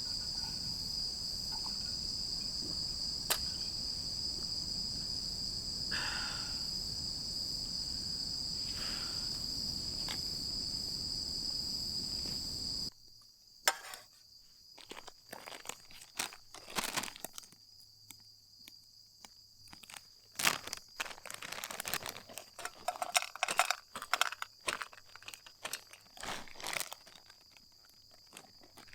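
Insects chirping in one steady high, unbroken trill over a low rumble. About halfway through the background drops abruptly and close, irregular crunching, crinkling and sharp clicks of handling take over, with the insects fainter behind them.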